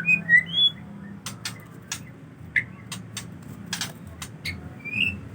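Male murai songbird giving a few short whistled notes at the start and again near the end, with scattered sharp clicks between them.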